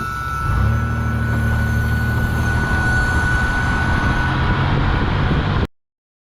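2004 Chevrolet Impala on the move with a steady high-pitched squeal from around the brakes, over engine and road rumble that rises about half a second in. The squeal stops near the end and the sound cuts off abruptly. The squeal comes from something rubbing on a brake rotor.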